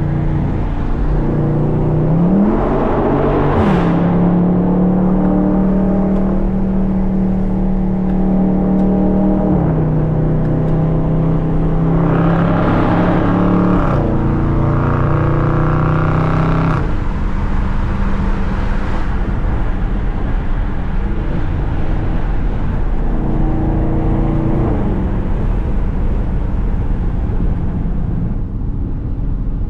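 Dodge Scat Pack's 6.4-litre HEMI V8 running under way. Its pitch climbs about two seconds in, holds, steps down around ten seconds, surges again briefly near thirteen seconds, and settles lower after about seventeen seconds.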